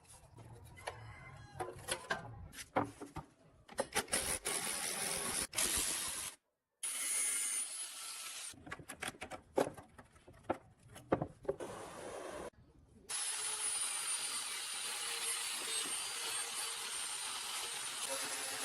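Workshop tool sounds: scattered metal clicks and knocks from hand work, then, about two-thirds of the way through, a power tool starts running steadily with a thin high whine.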